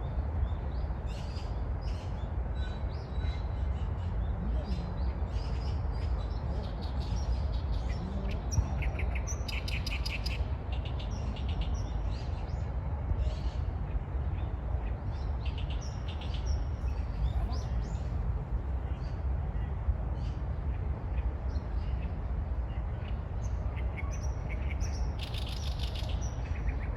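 Small birds chirping and calling, with two stretches of rapid trilling about ten seconds in and near the end, over a steady low rumble.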